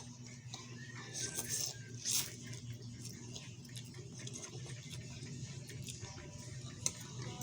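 Eating instant noodles close to the microphone: short wet slurps about a second and two seconds in, then chewing and small clicks, with a sharp click near the end, over a steady low hum.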